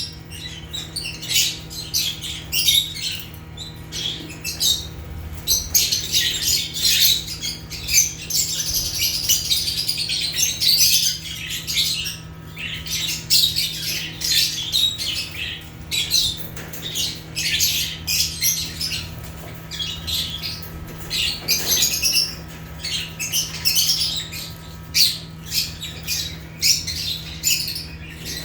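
A group of lovebirds chirping and squawking without pause in rapid, high, shrill calls, with a steady low hum underneath.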